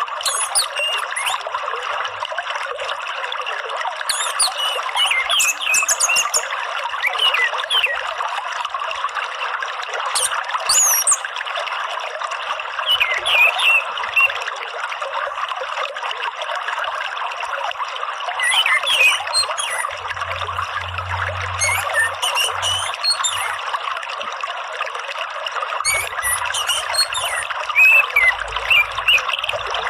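Water trickling and flowing steadily, with short bursts of high bird chirps every few seconds.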